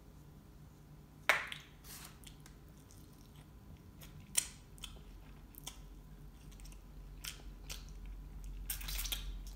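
Close-up mouth sounds of someone eating French fries dipped in ranch: soft chewing and biting with scattered small clicks. There is a sharp click about a second in, another a few seconds later, and a denser crackly patch of chewing near the end.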